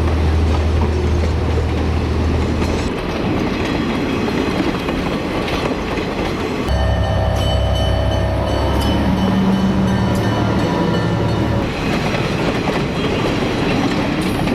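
Heavy diesel logging machine running under load, with scattered clanks and knocks. The sound shifts abruptly about halfway through.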